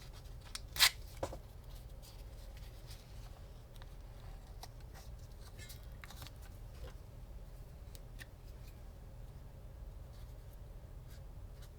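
Small handling sounds at a workbench: a sharp click about a second in and a lighter one just after, then faint scattered ticks and rustles over a steady low hum.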